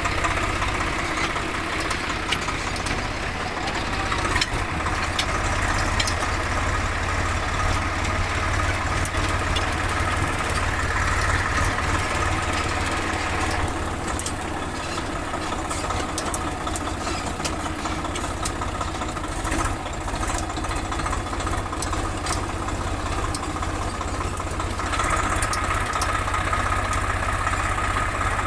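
Farm tractor's diesel engine running steadily with a deep, even drone; the higher part of the sound eases off about halfway through and picks up again shortly before the end.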